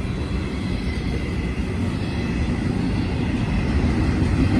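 Freight train cars rolling past at close range: a steady rumble of steel wheels on the rails, slowly growing louder.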